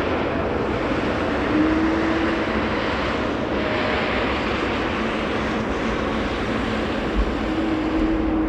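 Jet airliner's engines on approach, a steady rushing noise with a faint steady hum twice.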